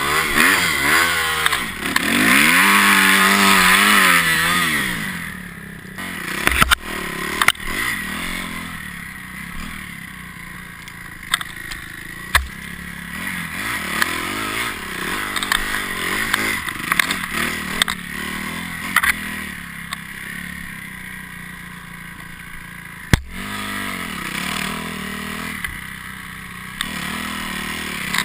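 Dirt bike engine revving up and down for the first five seconds or so, then running at lower revs. Scattered sharp knocks and clatter throughout, the loudest about 23 seconds in.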